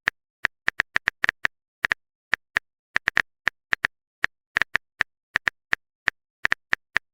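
Phone keyboard typing sound effect: short, sharp key clicks at an uneven pace, about four a second.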